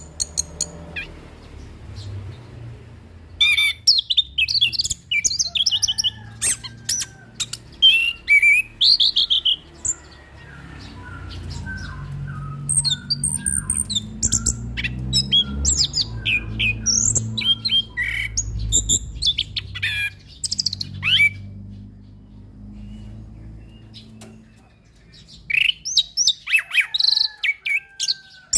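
Orange-headed thrush (anis kembang) singing bursts of fast, varied, high whistled and chattering phrases with short pauses between them, over a low background rumble.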